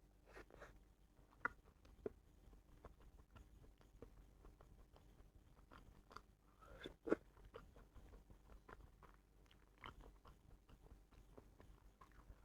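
Faint, close-miked chewing and mouth sounds: a string of soft wet clicks, with a few sharper bites standing out near the start and about halfway.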